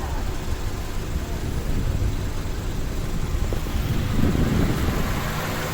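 Steady low mechanical hum, like a motor running, with a louder swell of noise about four seconds in.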